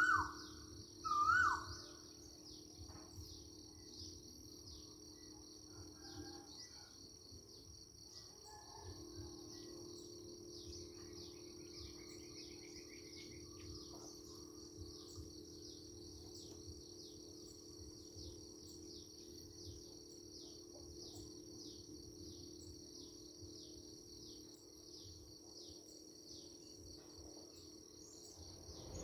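Countryside ambience: a bird gives two loud, sharply hooked calls in the first two seconds, then a steady high chorus of insects, like crickets, carries on with a low steady drone beneath it.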